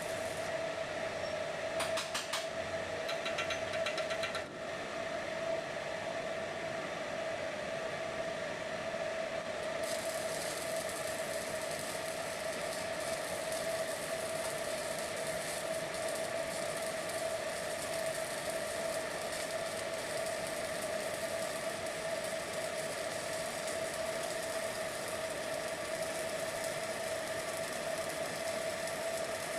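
Steady machinery hum with a constant mid-pitched tone, a few light clicks in the first few seconds, and a high hiss joining about ten seconds in.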